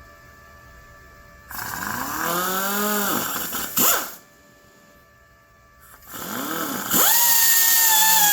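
Stick welding arc struck about a second and a half in, buzzing and crackling with a wavering pitch for about two seconds before it breaks off with a sharp snap. It is struck again about six seconds in and settles into a steady, loud arc.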